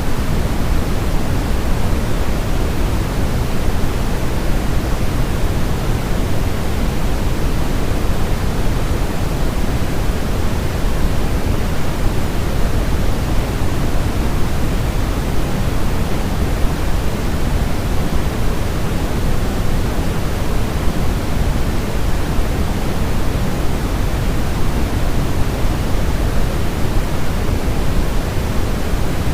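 Steady synthetic noise from a baby-sleep white-noise track: a constant, even rushing hiss weighted toward the low end, closer to pink noise, with no changes. It is made to imitate the sound of the womb and mask other noises.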